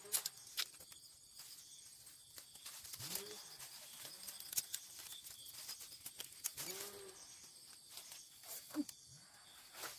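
A bird calling twice, short low arched calls, over scattered light clicks and rustles.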